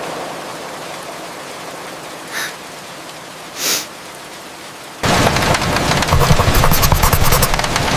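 Rain ambience: soft, steady rain hiss with two brief faint sounds in the middle. About five seconds in it cuts suddenly to a much louder, heavier downpour with dense pattering.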